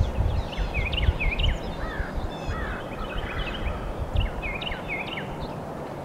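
Small birds chirping: many short, high calls, some dipping and then rising in pitch, in quick clusters, over an uneven low rumble.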